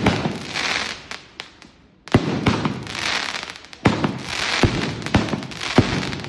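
Fireworks going off: about seven sharp bangs, each followed by a crackling hiss that fades away.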